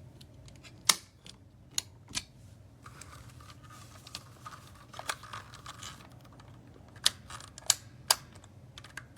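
Sharp plastic clicks and knocks, about seven at irregular intervals, from handling a hair dryer and working its switches, over a faint steady low hum.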